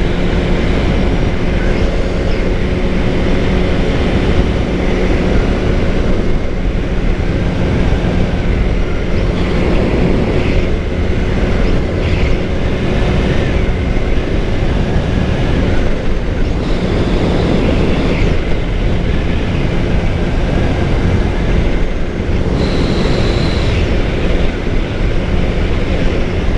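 A Suzuki GSX-R600's inline-four engine running at a steady cruising speed, holding an even pitch, over a constant rush of wind noise on the rider's microphone.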